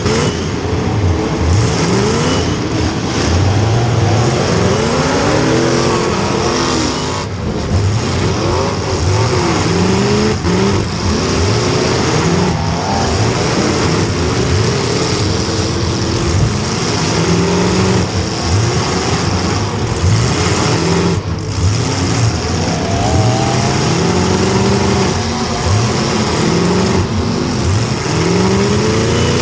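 A demolition derby car's small-block Chevy V8 revving hard, its pitch climbing and falling over and over as it is pushed to high revs and let off.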